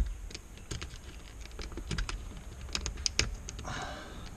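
Light, irregular clicks and taps of small plastic parts being handled and worked loose by hand, with a quick run of sharper clicks about three seconds in.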